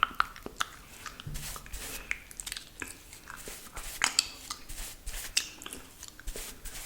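Close-miked wet mouth sounds: irregular tongue clicks and saliva smacks, many short sharp pops in quick, uneven succession.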